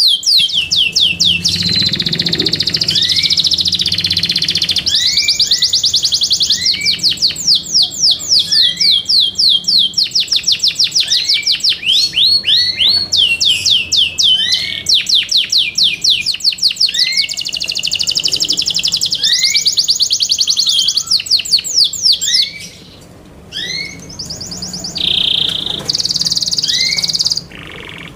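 Yorkshire canary singing a loud, continuous song: fast trills of rapidly repeated falling notes alternating with held whistled notes, with a short break about three-quarters of the way through.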